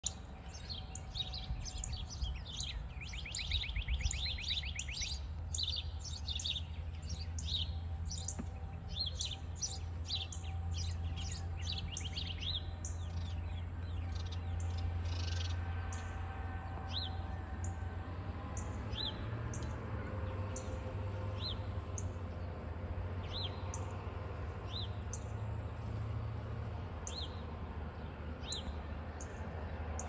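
Songbirds chirping over a low steady hum. A busy run of chirps and a fast trill fill the first dozen seconds, then a single sharp chip note repeats about every second and a half.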